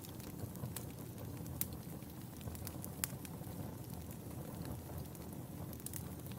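Wood fire burning in a fireplace: a steady low rumble with sharp crackles and pops scattered through it, two clearer pops about a second and a half apart.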